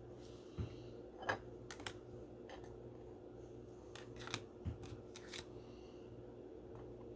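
Faint handling of trading cards and a plastic pack wrapper: several short clicks and crinkles, irregularly spaced, over a low steady hum.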